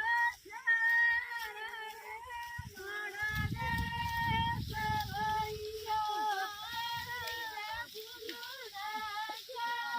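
Women singing a Marwari folk song in high voices, with long held notes and no instruments. A low rumble sits under the singing from about three to six seconds in.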